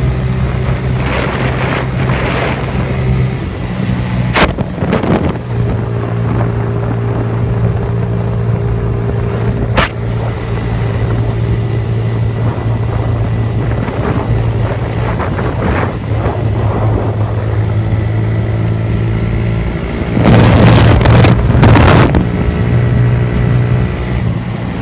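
Motorcycle with an aftermarket Leo Vince exhaust running steadily at highway speed, its single-cylinder engine note under heavy wind noise on the microphone. A couple of sharp clicks come through, and about twenty seconds in a louder rush of noise swells for a couple of seconds.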